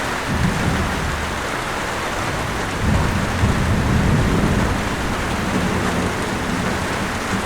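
Steady heavy rain, with low rumbles of thunder rolling underneath: a short one about half a second in and a longer one from about three to five seconds.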